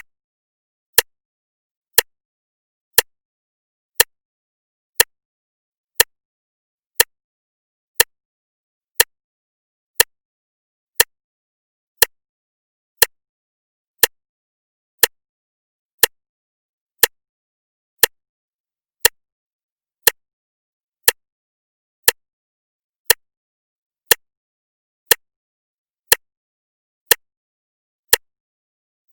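Clock ticking, one sharp tick a second, with silence between the ticks.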